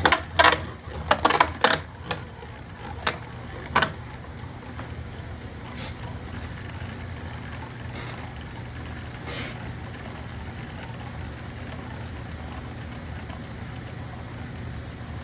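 Launch of a Tidal Pandora Beyblade top: the launcher ratchets and the top clatters on landing, with a few sharp knocks in the first four seconds. After that, the top spins in the plastic stadium with a steady whir.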